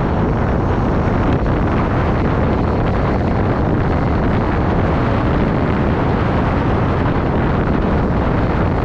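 Steady wind rushing over the microphone of a moving bike rider, a loud, even rush heaviest in the low end.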